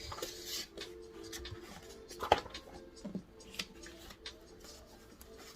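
Desk sounds of someone studying: pen scratching on paper and small handling noises, with a brief rustle at the start and one sharp tap or click a little over two seconds in, over a faint steady hum.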